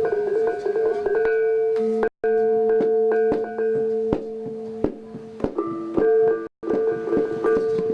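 Balinese gamelan gong ensemble playing a slow classical lelambatan piece: bronze metallophones ringing with sustained struck notes over gong tones. The sound cuts out completely for a moment twice, about two seconds in and near six and a half seconds in.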